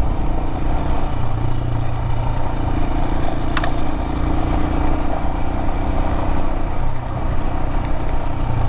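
Adventure motorcycle's engine running steadily while riding a gravel road, with road and wind noise and a single sharp tick about three and a half seconds in.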